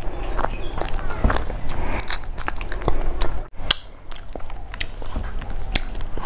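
Close-miked eating sounds: a mouthful of rice being chewed, with many short wet clicks and smacks of the mouth, and a brief break a little past halfway.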